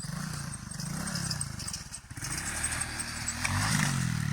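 Motorcycle engine running, its revs rising and falling several times as the bike is ridden down a slope.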